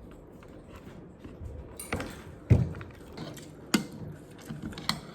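Mukbang eating sounds: a handful of sharp taps and knocks of food and utensils being handled, with mouth sounds of eating, the loudest knock about halfway through.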